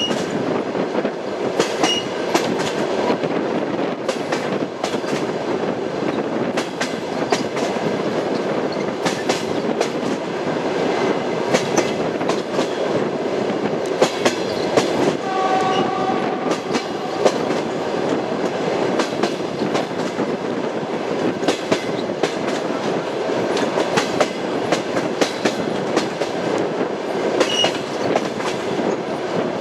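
Train running along the track: a steady rumble with the clickety-clack of wheels over rail joints. About halfway through, a brief horn-like tone sounds for around a second.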